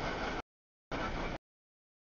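Mixed freight train cars rolling past: a steady rush of wheel and rail noise that keeps cutting out abruptly to dead silence, once about half a second in and again after about a second and a half.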